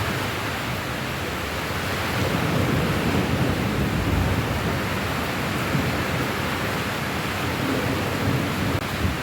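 Rain falling steadily in an even hiss, with a low rumble that swells up about two seconds in and eases off a few seconds later.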